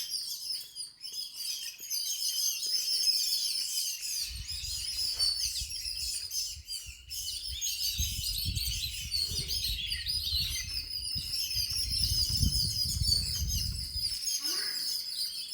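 Birds chirping constantly in dense, overlapping high calls, with a low rumble under them from about four seconds in until near the end.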